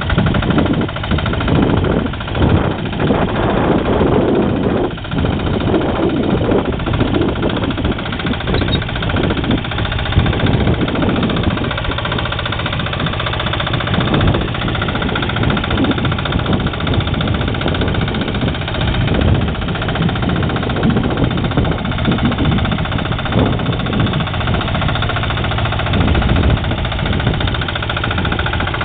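Engine of a Motor Sich–based mini-tractor with a rotary tiller running continuously. Its sound is uneven over the first few seconds and then holds steadier.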